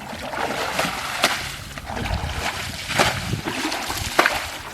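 Water being scooped out of a tide pool and flung aside, with several splashes and sloshing as the pool is bailed down.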